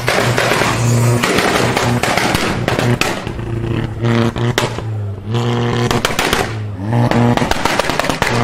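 Volkswagen Mk6 Golf R's turbocharged four-cylinder engine revved repeatedly through its exhaust, each rev held steady for a second or two. Sharp crackles and pops come in the short breaks between revs.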